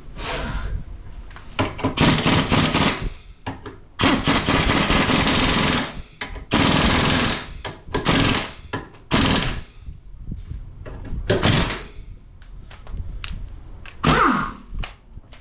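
Impact wrench running in repeated rattling bursts of about half a second to two seconds, snugging up the bolts of a freshly fitted front control arm.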